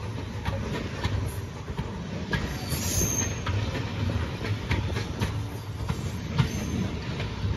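Railway passenger coaches rolling past at low speed, wheels clicking over rail joints over a steady low rumble, with a brief high wheel squeal about three seconds in.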